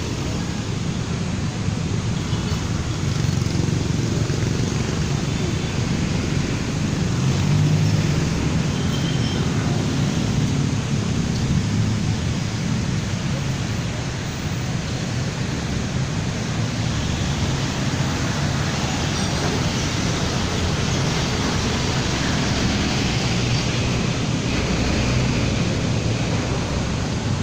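Steady road traffic noise: a continuous low rumble with hiss and no distinct events.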